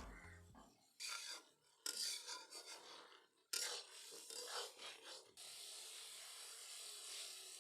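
Spatula scraping and stirring in a cooking pan as the chicken is dry-fried (kasa), in three bursts of strokes, then a steady hiss.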